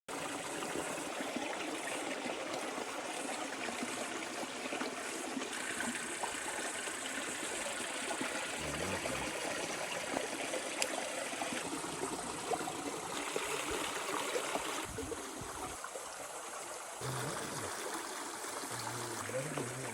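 Running water of a stream, a steady rushing and trickling, that changes abruptly in character a few times.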